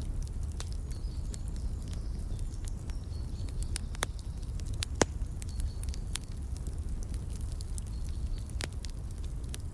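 Wood fire crackling in a fireplace: a steady low rumble with frequent sharp snaps and pops, the loudest pop about five seconds in. Faint high bird chirps come and go.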